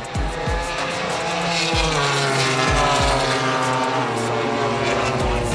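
MotoGP race motorcycle engine at high revs, its note climbing and dipping as the rider works through the gears and throttle.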